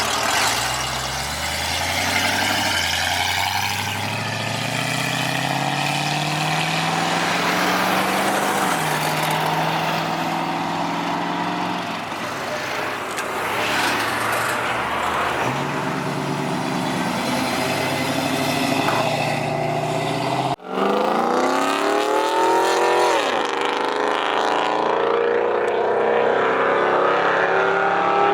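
Car engines accelerating hard, the pitch climbing steadily for several seconds, then dropping and running on. About twenty seconds in the sound cuts abruptly to another loud engine that revs up sharply, falls back, then holds a steady drone.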